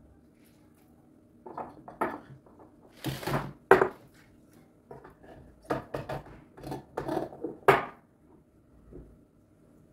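Kitchen clatter: dishes and utensils being handled, a string of knocks and clinks with a brief scrape, the sharpest knocks a little under 4 seconds in and near 8 seconds.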